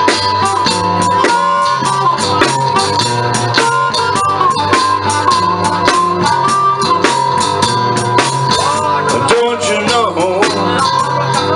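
Live blues band playing an instrumental passage, with a drum kit keeping a steady beat under electric guitar lines that bend in pitch near the end.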